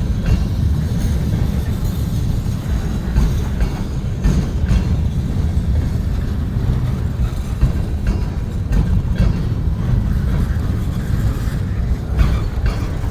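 Train rolling out of the station, a steady low rumble with scattered short clanks and clicks from the wheels and cars.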